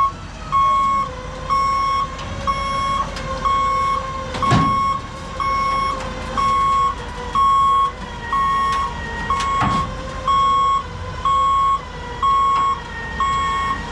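Heavy equipment backup alarm beeping steadily, a bit under two beeps a second, over the machine's running engine. Two sharp clanks come about four and a half and nine and a half seconds in.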